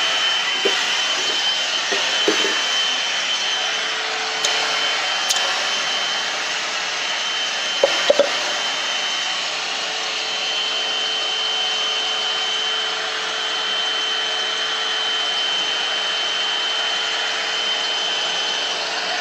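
One-step hot-air brush (hair dryer and styler) running steadily, blowing air with a steady high whine from its motor. A few brief knocks come about eight seconds in.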